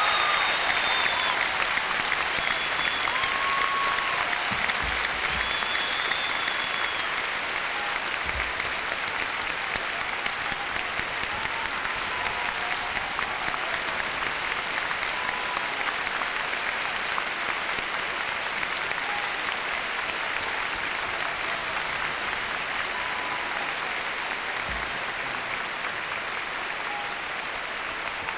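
Large audience applauding steadily, slowly getting quieter over the course of the applause.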